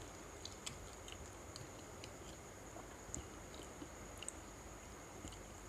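A person chewing food quietly, with faint, irregular small clicks and smacks from the mouth.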